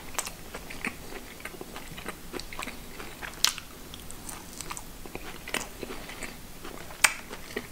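A person biting and chewing a mini kabanos, a thin, firm, dry Polish pork sausage stick, close to the microphone: short crunches and clicks at an irregular pace, with two sharper, louder ones about halfway and near the end.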